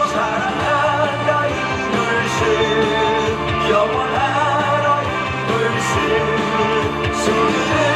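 Loud rock-style cheering song with singing, played at a baseball game.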